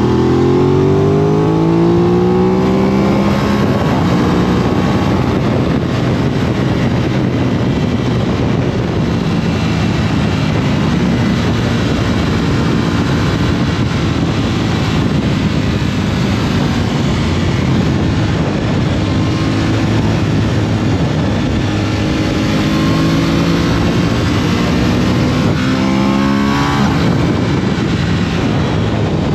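Aprilia RS 660 parallel-twin engine pulling under way, its revs climbing at the start and again later, with a steady rush of wind noise. Near the end the revs shoot up sharply and drop back.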